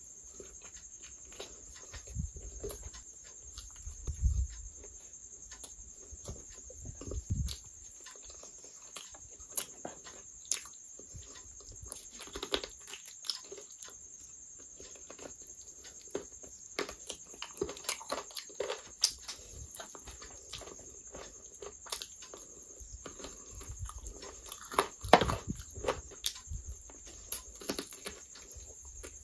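Close-miked eating sounds: wet chewing, lip smacking and sucking while chicken curry is eaten by hand and the meat gnawed off a chicken bone. Irregular small clicks and crackles run throughout, with a few low thumps.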